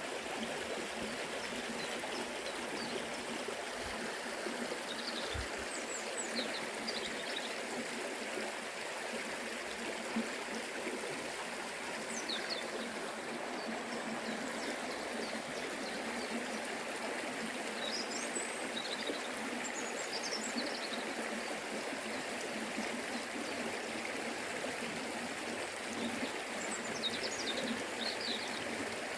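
Forest river flowing with a steady rushing and burbling of water over rocks. A few short, high chirps come in now and then over it.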